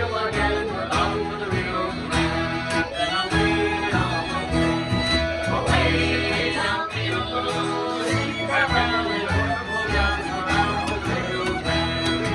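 Live acoustic pirate-song band playing an instrumental passage led by fiddle, with guitar accompaniment.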